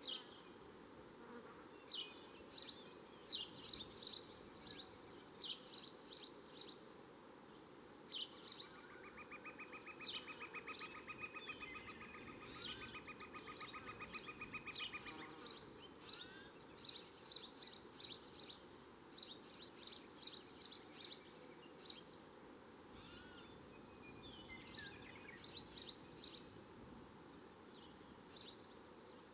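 Birds chirping in short, high calls throughout, over a faint steady hiss, with a fast buzzing trill that runs for about seven seconds in the middle.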